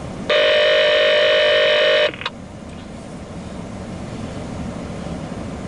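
A steady electronic tone of about two seconds from a railroad radio scanner, cutting off sharply and followed by a brief click, over a low steady background hum.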